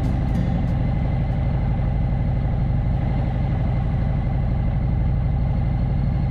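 Motorcycle engine running steadily at cruising speed, with a constant low drone and road and wind noise.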